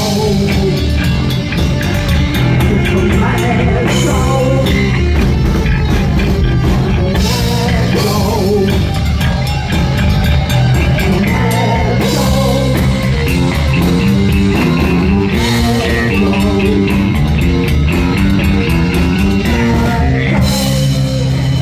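Heavy metal band playing live: distorted electric guitars, bass and drum kit, with some singing.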